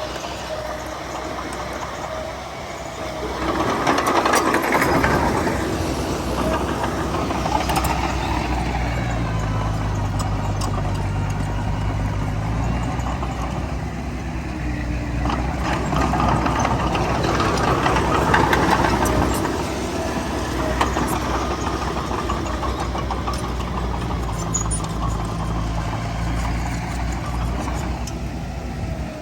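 Heavy diesel earthmoving machinery working: a bulldozer's engine runs steadily and swells louder twice under load, about four seconds in and again in the middle.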